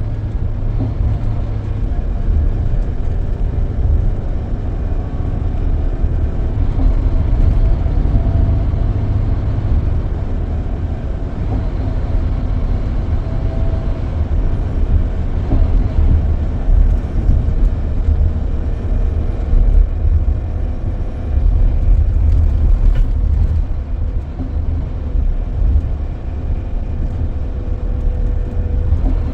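Scania K440EB coach under way, heard from inside the cabin: a steady low engine and road rumble that rises and falls slightly.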